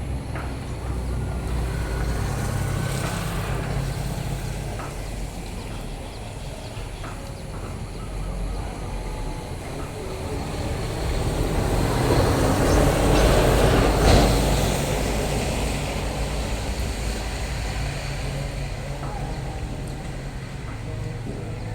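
A motor vehicle's engine running with a steady low hum, and a vehicle passing that swells to its loudest about two-thirds of the way through, then fades.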